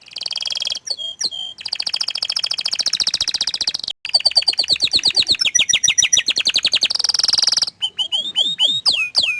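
Orange frost canary singing: long, fast trills of rapidly repeated high notes. They break briefly about four seconds in and again near the end, then give way to a few quick downward-sliding notes.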